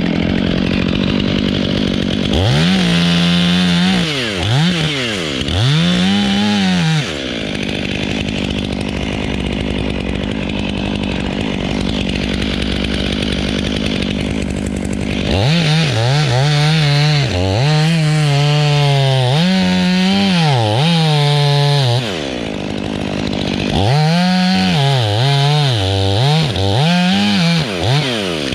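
Two-stroke chainsaw revving up and down over and over in three spells, with a steadier, lower stretch of running between the first and second.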